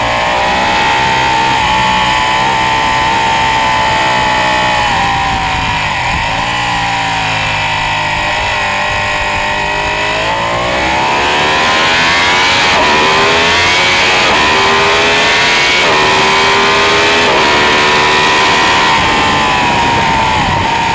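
Ducati 899 Panigale's Superquadro L-twin engine at speed. The note sags as the bike slows for a corner in the first half. Then the revs climb in repeated rising runs, each cut short by a quick upshift, as it accelerates hard.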